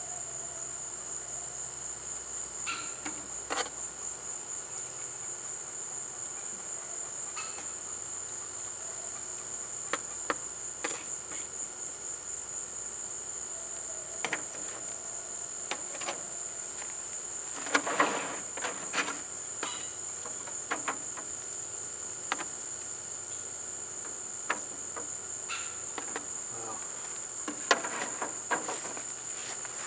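Steady, high chirring of crickets, with scattered sharp clicks and knocks, a small cluster of them about two-thirds of the way through.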